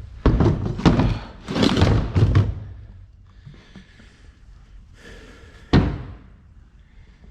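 Heavy thuds and bangs: a quick cluster of knocks in the first two and a half seconds, then a single sharp slam near six seconds.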